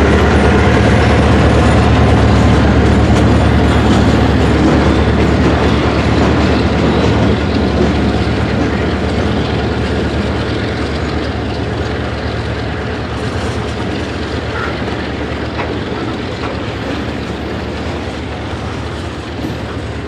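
Freight train of covered hoppers and tank cars rolling past close by: steady wheel-on-rail noise of the passing cars, gradually getting quieter.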